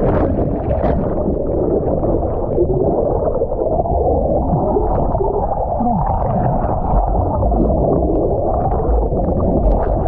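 Muffled water sloshing and bubbling around a swimmer who has just jumped into the sea.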